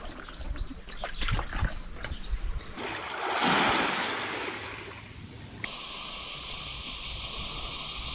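Sea water sounds: a run of small drips and splashes with low knocks, then a wave rushing in and fading, then a steady rushing hiss.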